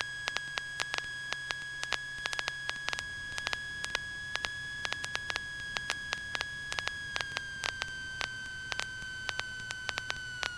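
Steady high-pitched whine with irregular crackling static clicks in a Cessna 150's headset intercom audio, the whine dropping a little in pitch over the last few seconds; the engine itself is barely heard.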